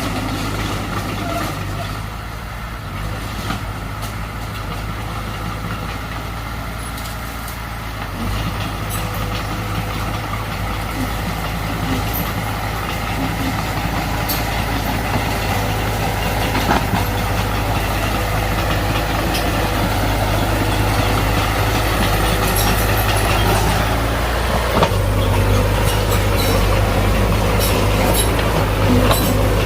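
Heavy diesel earthmoving machinery running steadily under load. It gets louder after about eight seconds, and the engine note shifts about 25 seconds in.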